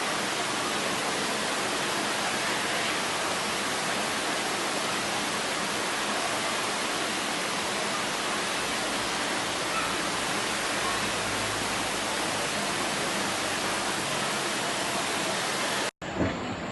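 Steady, even rushing noise, such as falling water makes, with no pauses or changes. It cuts off abruptly near the end.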